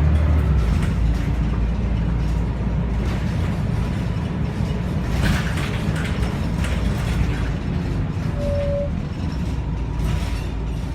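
Scania L113CRL bus with its 11-litre six-cylinder diesel running, a steady low drone, with rattles and clicks about five seconds in and again near the end.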